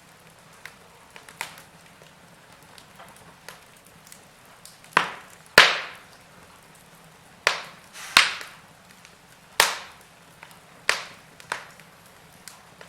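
Wood fire in a fireplace crackling: small ticks and snaps, with about seven loud, sharp pops from the middle on, each dying away quickly, over a faint steady hiss.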